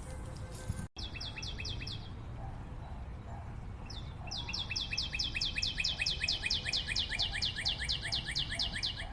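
A forest bird calling a fast series of short, high, downward-sliding notes, about six a second: a brief run about a second in, then a long run of about five seconds. A steady low rumble lies beneath.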